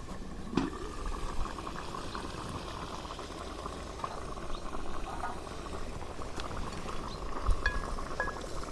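Yatimcheh, an eggplant and tomato stew, bubbling and sizzling in a pan over a campfire, with a steady fine crackle. There is a light knock about half a second in and another near the end.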